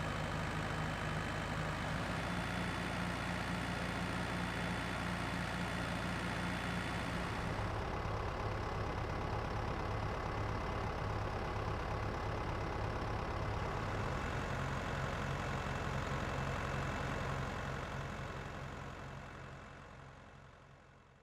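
A steady engine drone, low and humming, that shifts pitch twice and fades out over the last few seconds.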